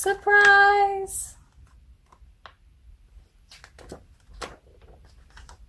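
A woman exclaims "Surprise!", then a few faint, scattered clicks and rustles of a picture book's pages being handled and turned.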